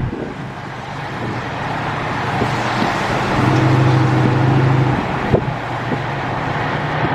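Road and traffic noise from a car being driven, steady throughout, with a low hum swelling for a second or two about halfway through.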